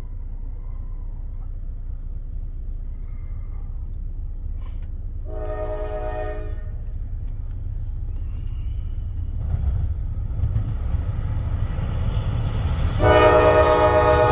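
An approaching freight train's diesel locomotive: a low engine rumble growing steadily louder, a short air-horn blast about five seconds in, and a long, louder horn blast starting near the end.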